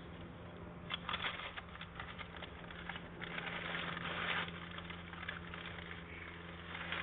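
Rustling, scraping handling noise of a rag wiping spilled oil from around the oil filter mount, in uneven spells with small clicks, over a faint steady low hum.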